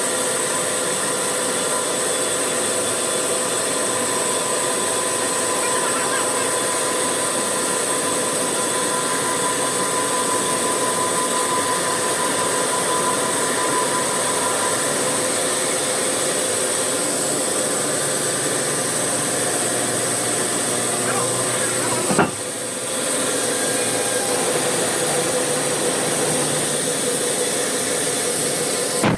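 Woodworking factory machinery running steadily: an even, loud hiss with a steady hum, broken by a brief sudden drop about three-quarters of the way through.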